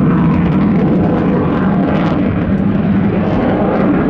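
Boeing F-15QA fighter jet in flight, its twin jet engines making loud, steady jet noise that is heaviest in the low range.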